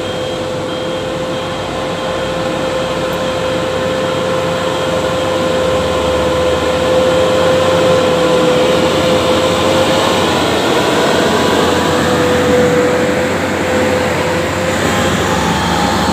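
Heavy truck engine running hard under load, with a steady whine over it. It grows louder, and a second, higher whine rises near the end.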